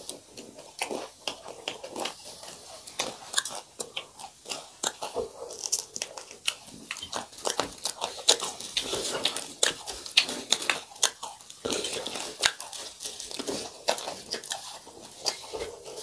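A person chewing close to the microphone, with irregular sharp crunches from crisp food all through.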